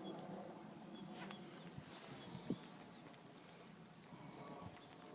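Small bird chirping in a series of short, high notes through the first two seconds, with a single low thump about two and a half seconds in.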